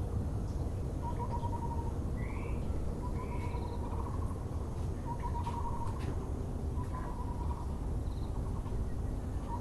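Taiwan barbet (Müller's barbet) calling: short runs of rapid, low, pulsed notes repeated every second or two. Another bird gives two short arched chirps about two and three seconds in, over a steady low background rumble.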